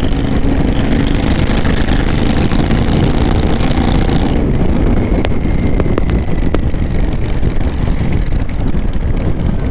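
Royal Enfield Continental GT 650's parallel-twin engine running loud with its tail pipes removed, heard while riding. It pulls under throttle for about four seconds, then eases off, and a few sharp pops crack out on the overrun.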